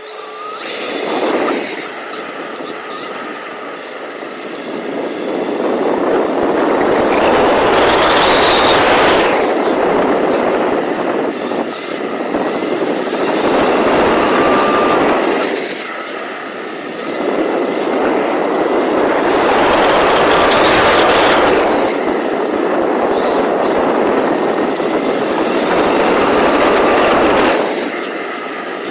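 Rlaarlo XBS electric RC car driving: motor and drivetrain whine with rushing tyre noise. It swells louder through two long runs, one from about 6 to 11 seconds in and one from about 17 to 27 seconds in.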